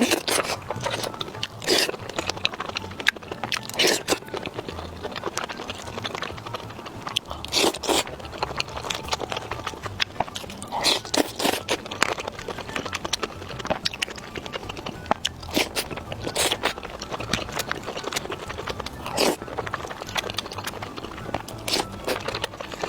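A person biting and chewing crunchy food, with irregular crisp crunches throughout.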